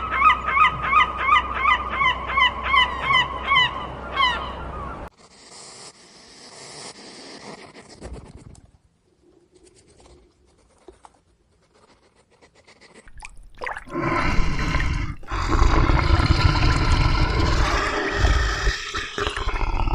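A bird's repeated honking calls, about three a second, for the first four seconds. After a quiet stretch, a loud, rough, noisy animal sound starts about fourteen seconds in.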